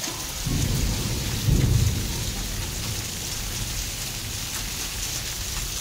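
Heavy rain falling steadily, with a low rumble from about half a second in that swells and fades by about two seconds.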